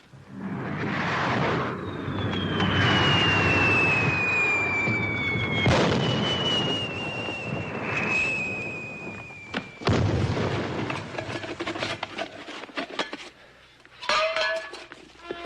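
Rocket and black-powder explosion sound effects: booms and blasts, with a rocket's whistle falling slowly in pitch over several seconds, then scattered crackling. Music comes in near the end.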